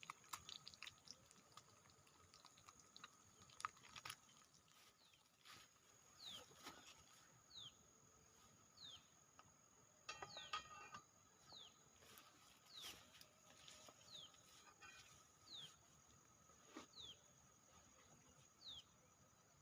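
Faint bird call: a short, high whistle falling in pitch, repeated about every second and a half, with scattered light clicks between the calls.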